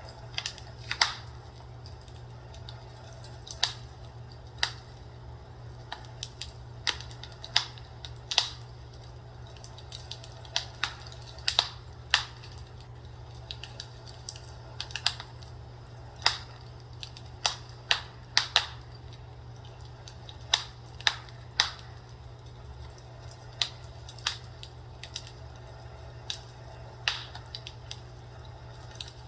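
Fireplace crackling: irregular sharp pops and snaps, about one a second, over a steady low hum.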